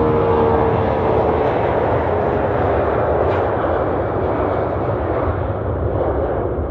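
Heavily loaded four-engine Airbus A340-200 at takeoff power, its CFM56 turbofans giving a steady rush of jet noise. A steady whine fades out within the first second.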